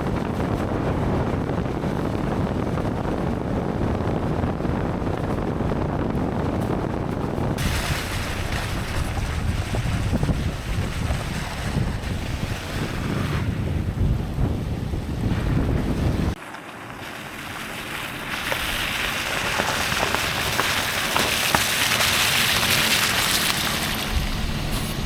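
Road and wind noise from a vehicle driving a rough, wet gravel road: a steady deep rumble that changes abruptly about two-thirds of the way in to a higher, hissing rush with little rumble.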